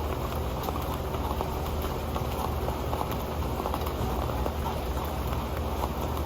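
Rain pattering on an old pan: a steady hiss of rain with many small, quick drop taps.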